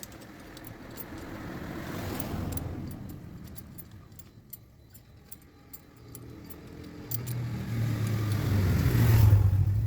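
Motor vehicles passing by: one swells and fades about two seconds in, and a louder one with a steady low engine hum builds from about seven seconds in and peaks near the end, with small scattered ticks.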